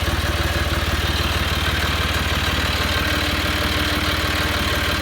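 John Deere 5055E tractor's three-cylinder diesel engine running steadily at idle.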